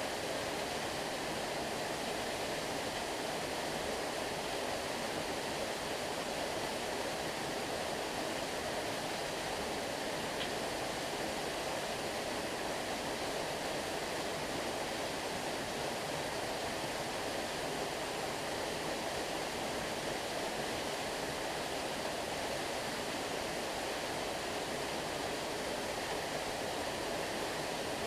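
Steady rushing of flowing stream water, an even unbroken wash with no distinct splashes.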